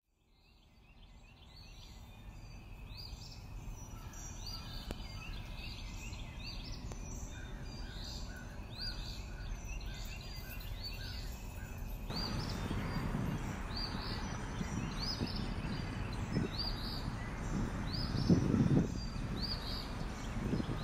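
Birds chirping: a repeated short high chirp about once a second, fading in from silence, with fainter lower chirps from a second bird partway through. About halfway through a rushing outdoor background noise rises under the chirps, and a brief low rumble comes a couple of seconds before the end.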